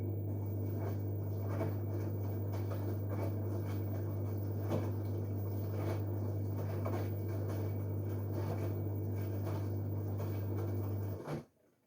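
LG direct-drive washing machine running its wash: a steady low hum with irregular swishes of wet laundry and water in the drum. It starts and stops abruptly, stopping about eleven seconds in.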